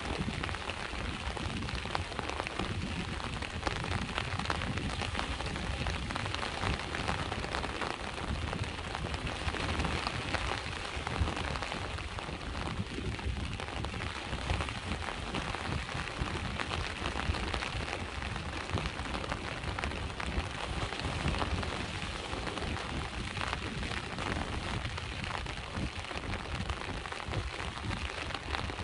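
Steady rain falling and pattering in countless fine drops, over a continuous low rumble of sea waves.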